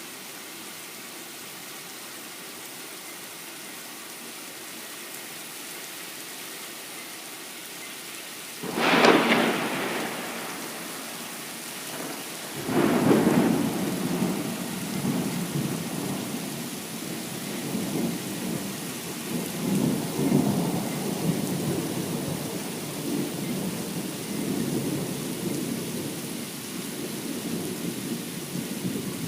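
Thunderstorm: steady rain, then a sharp thunderclap about nine seconds in and another about four seconds later, followed by long rolling thunder that swells and fades to the end.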